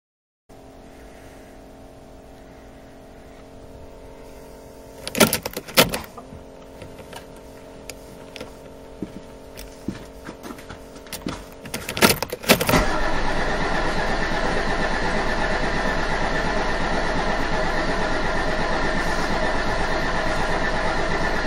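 A faint steady hum with a few sharp clicks, then a short cluster of knocks as the Mercedes OM603 inline-six diesel is cranked and catches about 13 seconds in, settling into a steady, loud idle. This is a cold start after three weeks standing, with air in the fuel lines.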